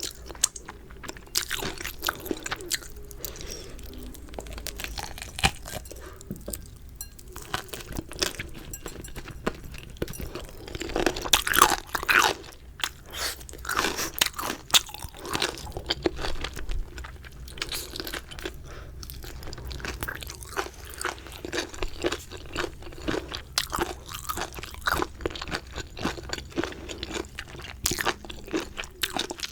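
Close-miked chewing and biting of crispy fried chicken: irregular crunches and crackles throughout, loudest about twelve seconds in.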